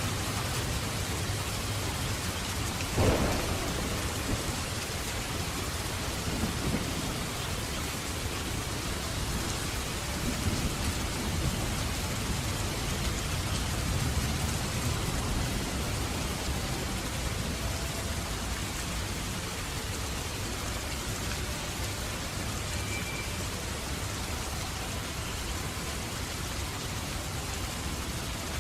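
Steady rain falling, with a sharp thunderclap about three seconds in and low thunder rumbling on for several seconds after it.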